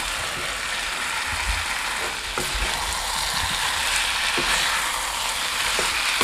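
Pork curry with freshly added potato chunks sizzling in oil in a black kadai, the oil separating out of the cooking pork. A spatula stirring through it knocks lightly against the pan a few times.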